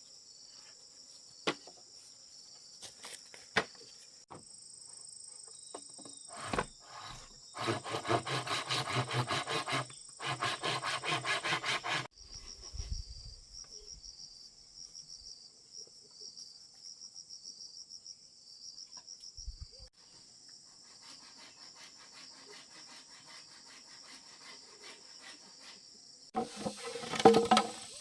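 Insects chirring steadily, with scattered sharp knocks on wood. A few seconds in come two runs of fast, rhythmic rasping strokes on wood, and a loud cluster of knocks comes near the end.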